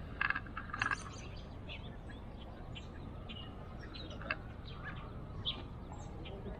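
Small birds chirping in short, scattered calls, with a quick flurry of chirps in the first second, over a steady low background hum.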